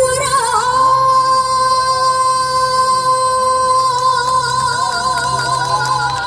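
A woman singing one long held note with a slight wobble over backing music with a steady bass line.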